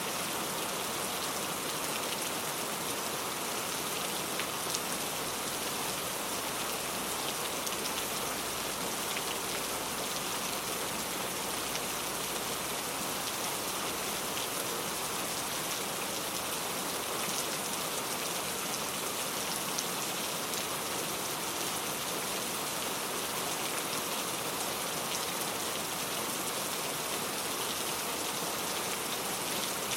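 Steady rain falling: an even, unbroken hiss of many drops, with faint scattered drop ticks.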